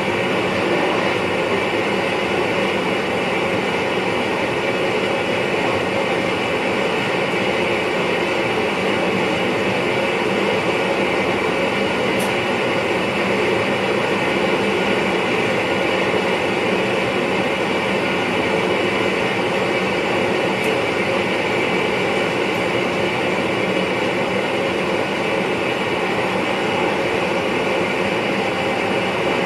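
Steady running noise of an NS VIRM double-deck electric train, heard inside the driver's cab: the even rumble of the wheels on the rails. Two faint ticks come about halfway through and again later.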